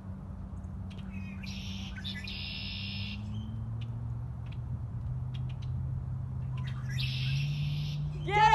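Two buzzy, high-pitched bird calls over a low steady hum, then a loud, wavering pitched call starting near the end.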